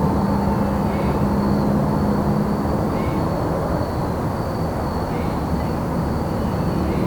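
Crickets trilling steadily at a high pitch, with a short chirp repeating about every two seconds. Under them runs a louder steady low rumble of distant vehicles.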